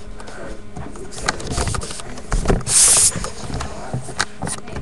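Dogs play-fighting: a run of irregular scuffling knocks and thumps from paws and bodies, with a loud breathy burst about three seconds in.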